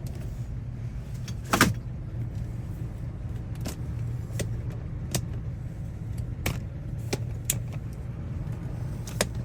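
Steady low hum of a car engine running, with scattered light clicks and one sharper knock about a second and a half in.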